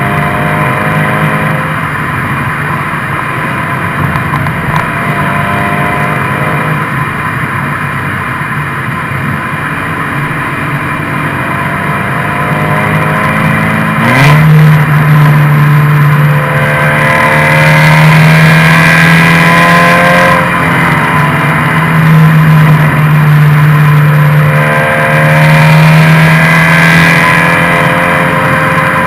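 Exhaust note of a Subaru BRZ / Scion FR-S 2.0-litre flat-four while driving, the revs rising and falling several times. About halfway through it gets louder, with a strong steady low drone from the muffler.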